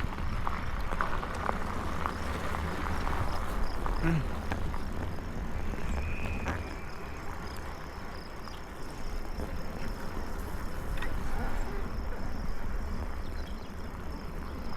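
Wind rumbling on the microphone while riding a bicycle on a rough trail, with scattered clicks and rattles from the bike and tyres. A faint, thin, steady high insect drone comes in about six seconds in.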